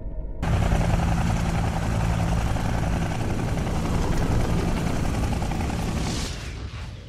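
Helicopter flying past low, its rotor and engine running loudly; the sound cuts in suddenly about half a second in and fades away near the end with a brief whoosh.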